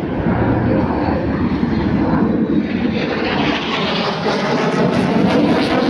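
Engine noise of military aircraft flying past, a dense steady noise that grows louder and brighter from about halfway through.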